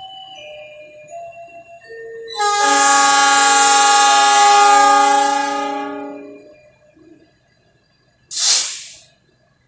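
Train horn sounding one long, loud chord for about four seconds, then fading away. A short hiss follows near the end.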